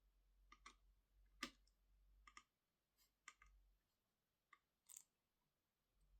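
Faint, irregular small clicks and taps, about eight of them over five seconds with the sharpest about a second and a half in, as of small tools, screws or laptop parts being handled during disassembly.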